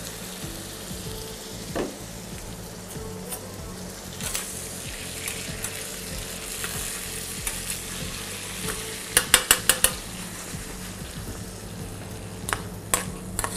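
Prawns and pork belly sizzling in oil in a wok as fish sauce is poured in and a ladle stirs them. A quick run of sharp clicks comes about nine seconds in, and two more near the end.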